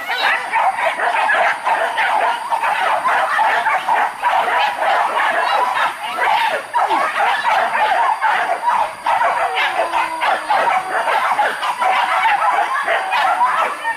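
A pack of boar-hunting dogs barking and yelping all at once, the barks overlapping without a break.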